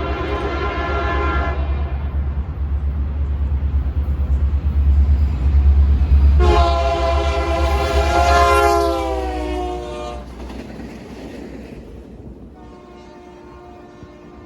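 A train passing while its locomotive sounds its air horn, over a heavy low rumble. A horn chord fades out about 2 s in. The rumble builds, and a loud horn blast comes in at about 6 s; its pitch drops slightly toward its end at about 10 s, as the locomotive goes by. A fainter horn chord sounds near the end.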